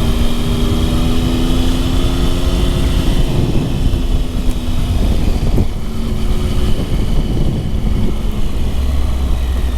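Motorcycle engine running steadily under way, with wind rumble on the microphone. The engine note eases off about three seconds in.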